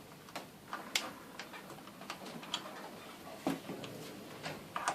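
Irregular light clicks and taps of metal garage door hardware being handled and fitted, about a dozen in all, the sharpest about a second in and at three and a half seconds.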